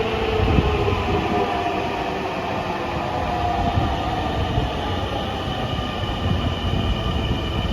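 Dhaka Metro Rail electric train running: a steady rumble with the whine of its traction motors slowly rising in pitch.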